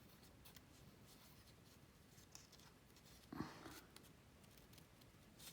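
Small scissors faintly snipping through cardstock, cutting out a stamped image, with a louder brief rustle and bump of the card being handled about three and a half seconds in.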